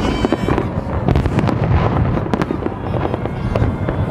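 Fireworks display: aerial shells bursting in a dense, irregular run of overlapping bangs.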